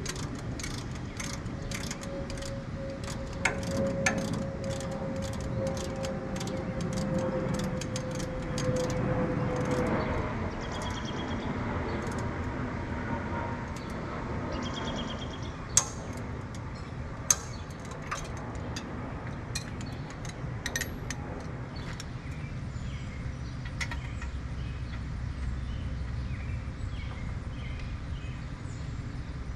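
Hand tools working on engine-mount bolts: a run of quick clicks for the first several seconds, then two sharp metal knocks about a second and a half apart, over a steady low hum.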